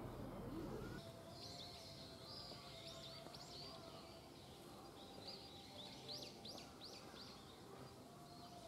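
Small birds chirping faintly in quick, repeated high calls, with a faint steady background hum.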